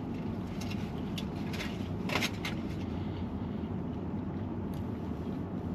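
Steady low background rumble with a few short, soft clicks, the most marked about two seconds in.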